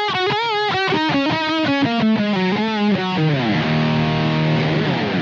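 Distorted electric guitar through an Ibanez Metal Charger overdrive/distortion pedal, playing a fast single-note lead run with wavering vibrato. It settles onto one held low note near the end.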